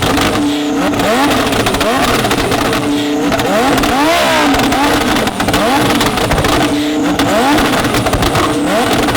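Supercar engines revved in quick repeated throttle blips, each one a rising sweep in pitch, about one to two a second, with one bigger rev rising and falling about four seconds in.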